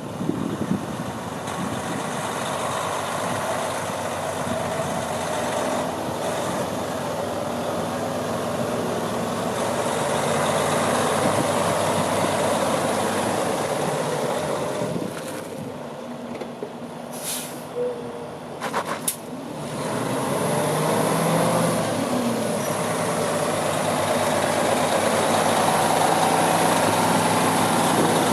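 Heavy diesel truck engine running, with two short, sharp hisses of air-brake air a little past halfway through, after which the engine note runs steady and slightly louder.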